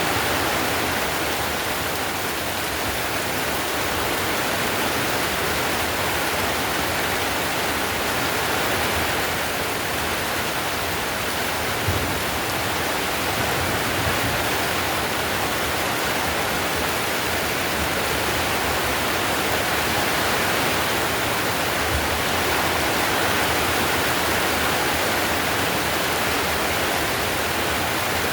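Heavy rain drumming steadily on a clay-tiled roof, a dense, even hiss, with a faint low thump about twelve seconds in.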